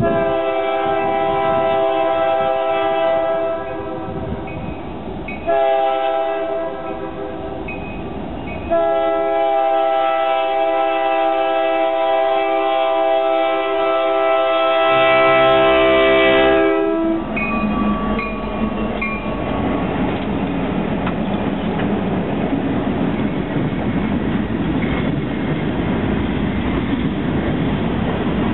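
Union Pacific diesel freight locomotive's multi-chime air horn sounding three blasts for a grade crossing, the last one long, about eight seconds. The deep engine sound rises under it as the locomotives come close. Then the train passes, its freight cars making a steady rumble of wheels on rail.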